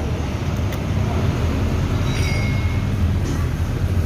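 Steady low rumble of vehicle or machinery background, with a light click about three quarters of a second in and a brief high squeak a little after two seconds.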